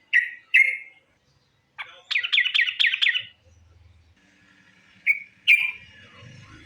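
Yellow-vented bulbul (trucukan) calling: two short notes, a quick bubbling run of about six falling notes, then two more short notes.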